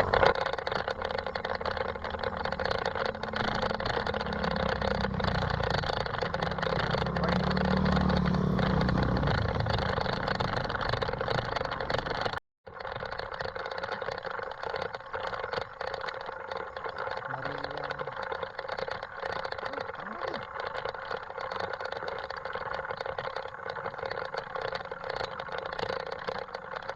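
Riding noise of a mountain bike on a rough trail: steady tyre and road rumble with many small rattling clicks. It cuts out briefly a little under halfway, then carries on.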